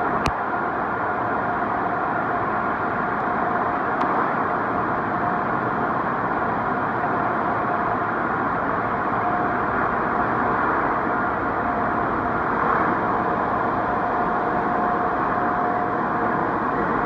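Automatic car wash tunnel machinery running with a steady noise and a faint steady tone, with a sharp click just after the start and a fainter one about four seconds in.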